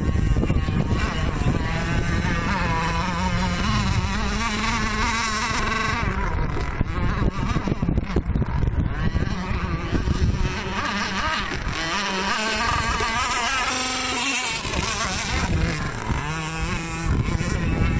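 Small engine of a radio-controlled model boat buzzing at high revs, its pitch wavering up and down as the throttle changes.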